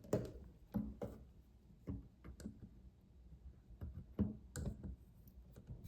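Scattered light clicks and knocks, about seven at irregular intervals, of a new faucet valve and small faucet parts being handled and worked down into the faucet body.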